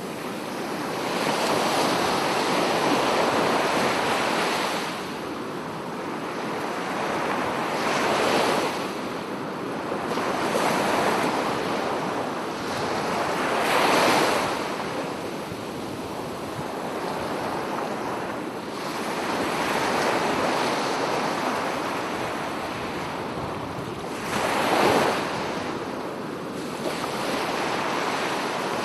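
Sea waves breaking and washing on a shore, a steady rush that swells with a louder surge every few seconds.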